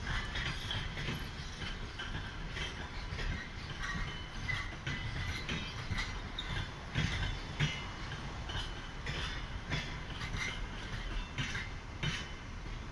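Passenger coaches of a train being moved by a shunting diesel locomotive rolling slowly past over yard tracks: a steady low rumble with irregular clanks and knocks from the wheels over rail joints, and occasional short high wheel squeaks.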